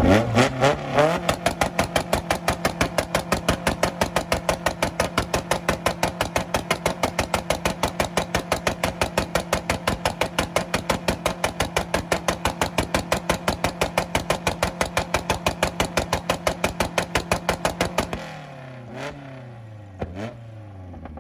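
Tuned car engine revved up and held on a two-step launch limiter, its steady pitch chopped into a fast, even stutter of about five loud bangs a second. Near the end the limiter lets go and the revs fall back, with a couple of sharp exhaust pops.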